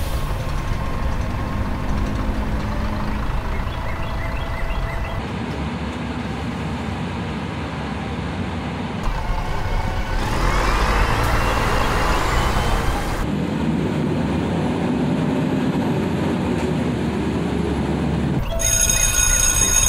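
Sound effect of a bus engine running, made of several pieces that change abruptly, with a rising whine about ten seconds in as the bus drives. Music starts near the end.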